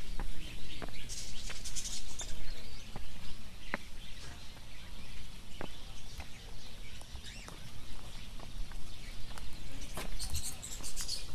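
Birds chirping in two short bursts of high, quick twittering, near the start and again near the end, over scattered light clicks and taps.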